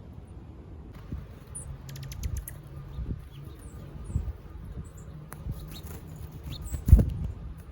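A feeding bird's pecks and knocks: irregular low thumps, a quick run of sharp taps about two seconds in and a heavy thump near the end. Faint high chirps from small birds come and go.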